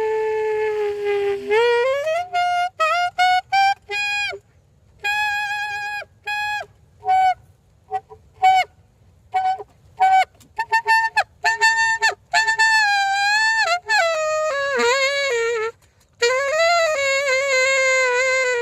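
A solo saxophone plays a melody. It opens on a long held note, slides upward, then plays a run of short detached notes and some held notes with vibrato, and ends on a sustained lower note.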